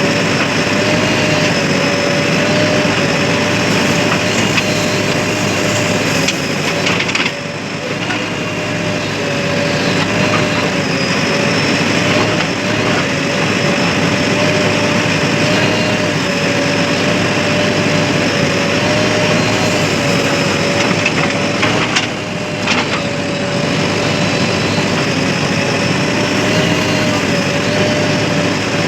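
Heavy diesel machinery running steadily, with a constant, slightly wavering whine over dense mechanical noise. The sound dips briefly twice, about a third of the way in and again near three quarters.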